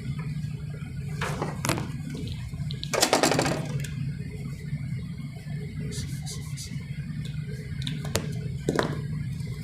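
Room background with a steady low hum, several short clicks, and a brief louder rustling noise about three seconds in.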